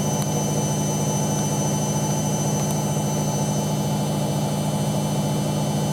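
Hoover A3308 Computer Control 1100 washing machine spinning at a steady speed, its drum motor giving an even, deep hum.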